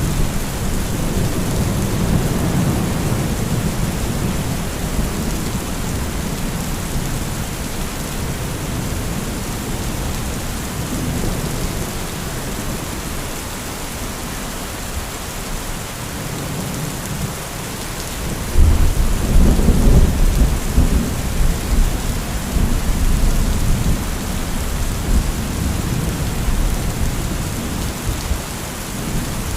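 Heavy rain falling steadily, with rolling thunder: a rumble fading over the first several seconds, then a sharper, louder thunderclap a little past the middle that rumbles on for several seconds.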